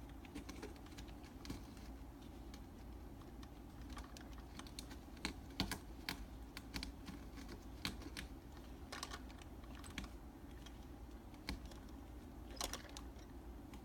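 Scattered light clicks and taps at an irregular pace, like typing on a keyboard, over a low steady hum.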